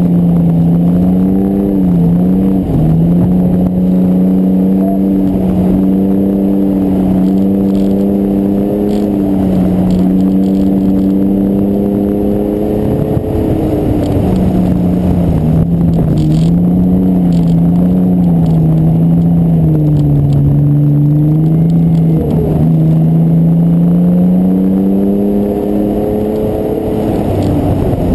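Mitsubishi 3000GT's V6 engine pulling hard at high revs as the car is driven on a snow-covered track, its pitch wavering up and down with the throttle. About halfway through it drops and falters briefly, then climbs again, and it dips once more near the end.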